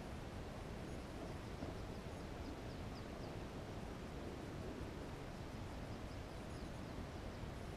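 Steady low outdoor background noise. About a second in, a faint rapid run of short, high, falling bird notes lasts around two seconds.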